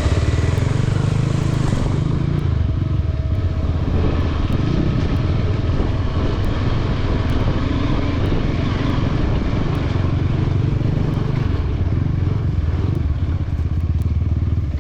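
Motorcycle engine running under load while the bike rides along a rough trail, its note rising and falling with the throttle.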